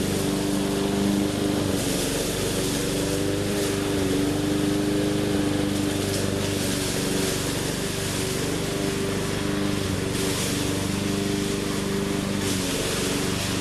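Small engine of a 20-inch walk-behind push mower running steadily at working speed; its note weakens for a few seconds in the middle and comes back strong near the end.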